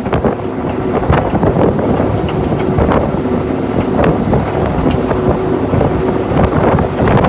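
Rolls-Royce Sentinel shunting locomotive running along the line, heard from inside its cab: a steady engine drone with a faint constant whine, irregular knocks and rattles from the wheels and cab, and wind buffeting the microphone.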